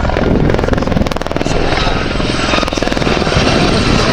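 Westland Gazelle helicopters flying past, turbine and rotor noise with a rapid even pulsing of the rotor blades for the first second and a half, then a steady rushing sound with a faint whine.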